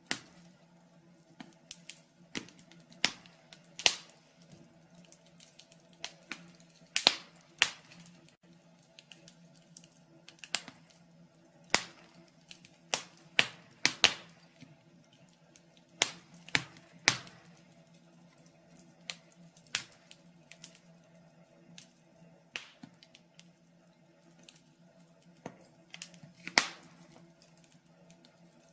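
Wood fire crackling in a fireplace: irregular sharp pops and snaps, roughly one to two a second and uneven in strength, over a faint steady low hum.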